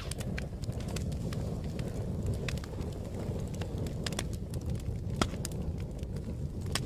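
Fire crackling: irregular sharp pops and snaps over a steady low rumble of burning, with louder pops at the start, about five seconds in, and near the end.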